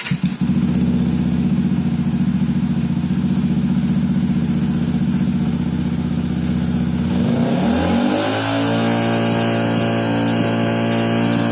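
Yamaha WR155's single-cylinder four-stroke engine running through a Triton Pro 5 series full-system exhaust with stainless silencer. It idles steadily for about seven seconds, then the rider opens the throttle and it holds at a steady higher rev.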